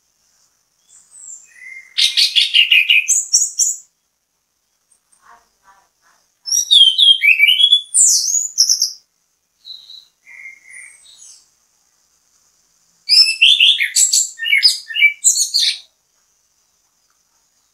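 Chestnut-capped thrush (anis kembang) singing in full voice: three loud phrases of quick, varied high notes separated by pauses, with a few soft notes in between.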